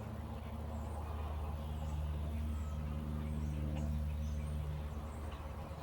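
A steady low mechanical hum, like a running engine, with faint short high chirps scattered over it.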